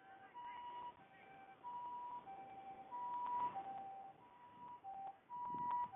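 Japanese ambulance two-tone siren: a high and a low tone alternating about every half second, the 'pee-poh' of an ambulance answering a call. A couple of dull low rumbles come up under it, about halfway and near the end.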